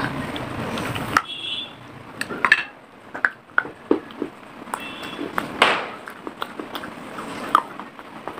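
Close-miked chewing of pieces of unglazed clay pot: a dense crackle for the first second that cuts off suddenly, then scattered sharp crunches and clicks as the clay is bitten and ground between the teeth.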